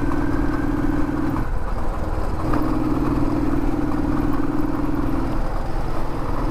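Royal Enfield motorcycle engine running while riding along a road. Its steady note falls away about a second and a half in, returns about a second later, and falls away again near the end.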